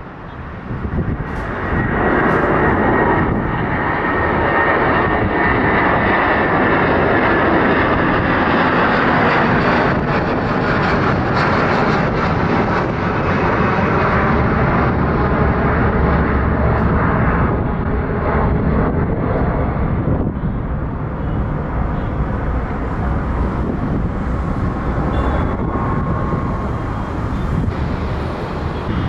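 Jet airliner engines running loud and close. The sound swells within the first two seconds, holds steady, then slowly fades through the second half, with a faint whine on top.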